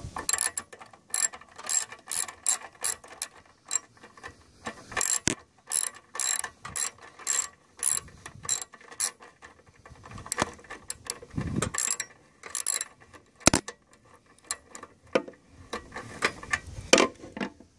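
Ratchet wrench clicking in short runs of quick clicks with brief pauses between strokes as a bolt is tightened.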